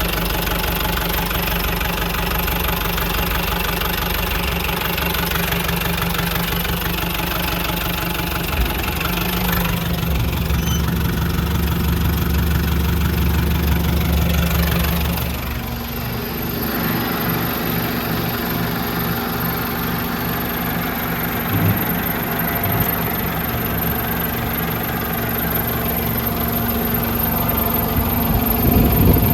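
Nissan ED30 diesel engine of an old Nissan Cabover dump truck running at idle with a steady diesel clatter. Its sound shifts about ten seconds in and changes again about halfway through.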